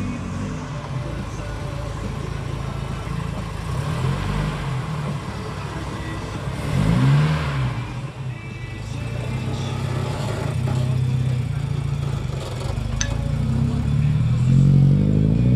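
Car engine running and revving under load as the car is driven up a muddy grass slope, with the revs swinging up sharply about seven seconds in and again near the end.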